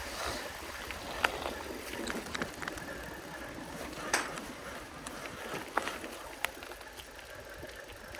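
A bicycle riding along a trail: steady tyre and wind noise with a low rumble, broken by a few sharp clicks and knocks, the loudest about a second in.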